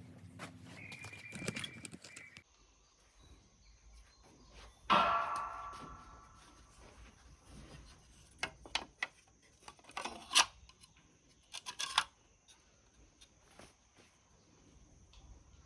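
Metal engine parts and tools being handled on a workbench. About five seconds in comes one loud metallic clang with a ringing tail, and a few seconds later there are several sharper clicks and clanks.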